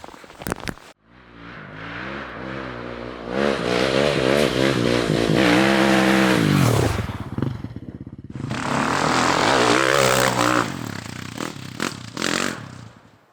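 Dirt bike engine revving hard in two long runs with a short break between, its pitch wavering and sweeping up and down; it fades near the end.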